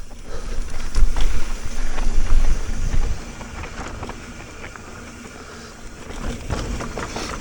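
Wind buffeting the microphone and tyres rolling over a dirt trail as a mountain bike descends, with scattered clicks and rattles from the bike. The wind rumble is loudest for the first three seconds, then eases to a steadier, quieter rush.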